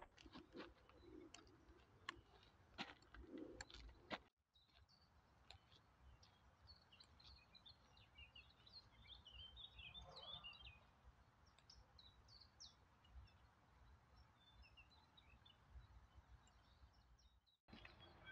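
Songbirds chirping faintly in short scattered calls, with a quiet outdoor background. In the first four seconds come a few sharp taps, from forearm crutches on the path.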